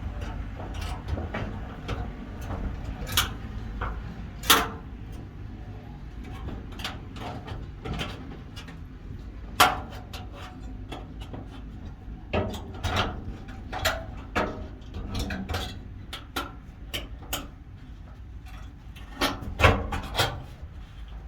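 Hand work with wire and pliers on metal corral panels: irregular sharp clicks, clinks and scraping as the wire is pulled and twisted tight.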